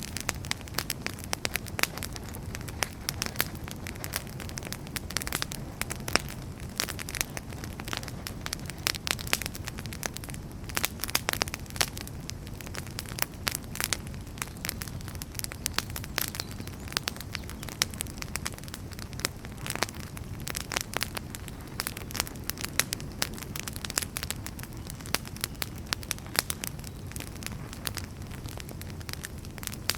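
Wood fire burning in a fireplace: a steady low rush of flame with frequent, irregular crackles and sharp pops from the burning firewood.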